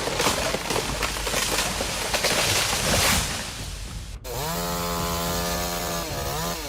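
A rough rush of noise with scattered cracks for about four seconds, then a sudden cut to a chainsaw engine running at a steady pitch, which dips briefly near the end.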